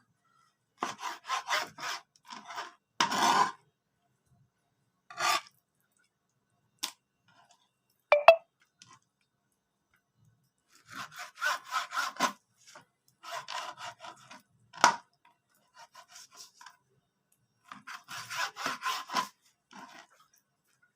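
Knife sawing back and forth through frozen liver on a dry cutting board, slicing it into thin strips. It comes in short runs of rapid scraping strokes with pauses between, and a couple of sharp knocks.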